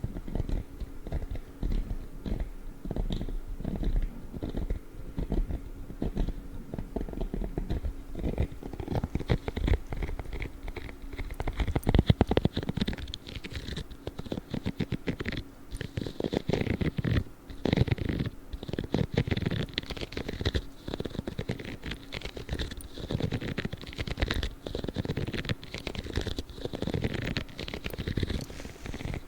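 Blue spiky gloves scratched and rubbed close to the microphone: a dense, unbroken run of rapid crackly strokes.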